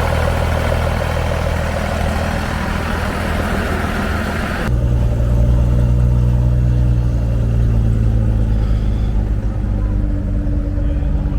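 Vehicle engine idling steadily, a low even hum. About halfway through the sound breaks off abruptly into a deeper, louder idle with less high hiss.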